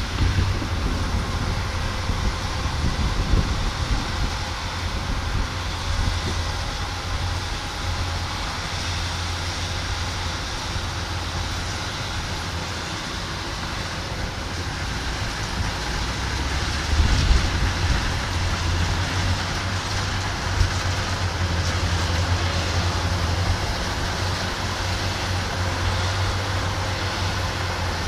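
Kubota combine harvester running steadily while harvesting rice, a constant low engine hum under the rushing noise of the machinery, briefly louder a little past halfway.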